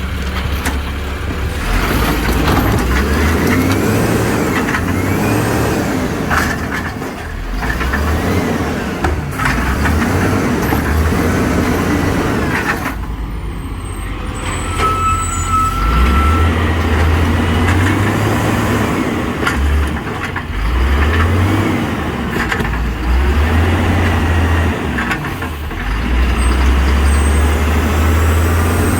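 Garbage truck engine running and revving up several times, with scattered clanks and knocks, as the truck picks up and packs recycling.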